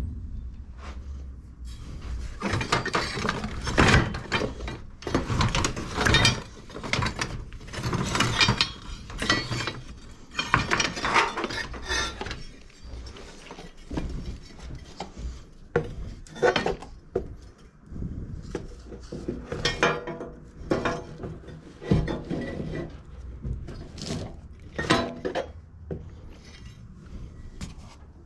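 Hand tools and metal mower parts clinking and clattering in irregular bursts, with no engine running.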